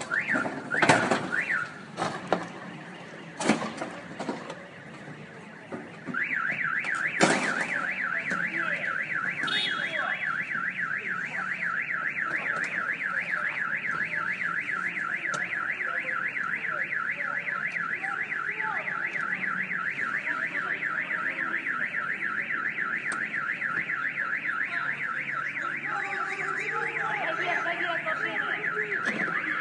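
A few sharp knocks, then about six seconds in a car alarm starts up with a fast, steady warble that keeps going.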